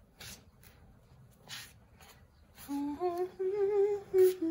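A woman humming a short tune in long, wavering notes, starting about two and a half seconds in; before it, a few soft swishes such as dry flour being mixed in a bowl.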